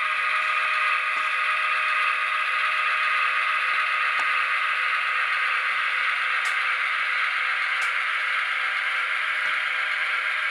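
Soundtraxx Tsunami decoder's EMD 645 non-turbo diesel prime mover sound, running steadily through an HO scale locomotive's tiny speaker, with little bass. A few faint clicks are heard along with it.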